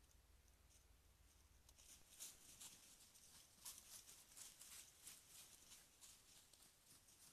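Faint, irregular crackling rustles and light steps in dry vegetation, several a second, starting about two seconds in: an animal moving through the grass close to the trail camera.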